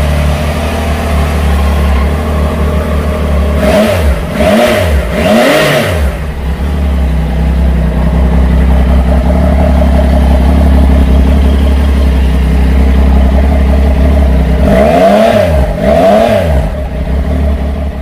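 2019 Triumph Tiger 800 XCx's three-cylinder engine idling in neutral just after starting, blipped twice in quick succession about four seconds in and twice more about fifteen seconds in.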